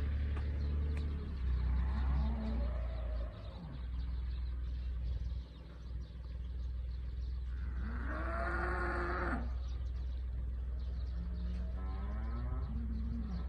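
Cattle mooing: several long calls, the loudest about eight seconds in, over a steady low hum.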